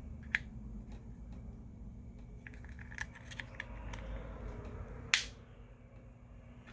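Small tool clicks and taps on a phone's internals while prying at the vibration motor, a few light ticks in the middle and one sharper click about five seconds in.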